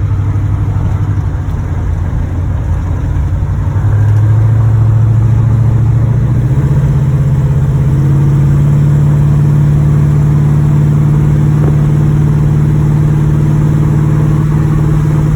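1986 Chevrolet Monte Carlo SS V8 engine running under way, its pitch rising in steps over the first half and then holding steady. The engine has a knocking rod in the bottom end, by the owner's account.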